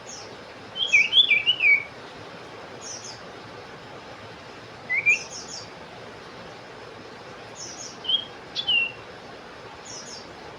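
Common iora (cipoh) calling: a quick run of swooping whistled notes about a second in, then single whistled calls around the middle and near the end, with short high chirps every couple of seconds over a steady hiss.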